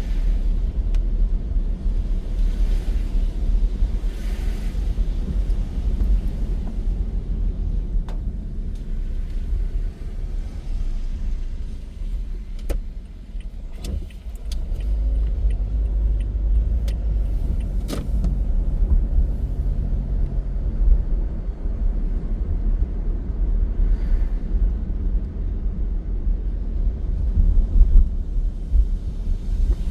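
Car driving on the road: a steady low rumble of engine and tyres, easing briefly about halfway through, with a few sharp clicks in the middle.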